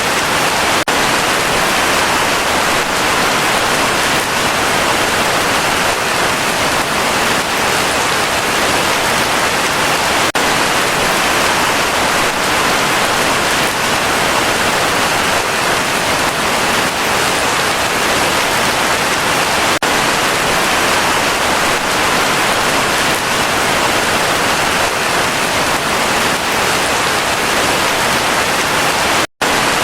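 Heavy rain falling steadily, a dense even hiss, with a split-second dropout to silence near the end.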